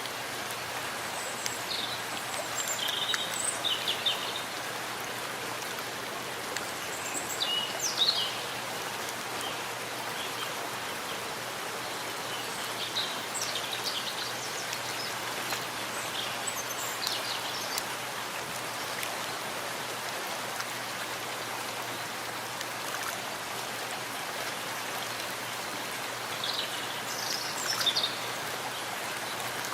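Steady rain falling in a forest, an even hiss of drops. Short high bird chirps break through several times, loudest about eight seconds in and again near the end.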